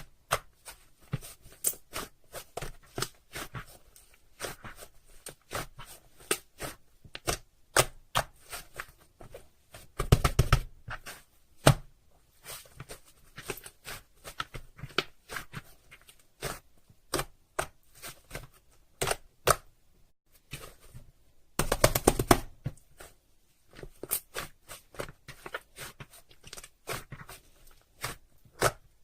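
Slime being squished and pressed by hand, making irregular wet clicks and pops, with two short bursts of rapid crackling about ten seconds in and again about twenty-two seconds in.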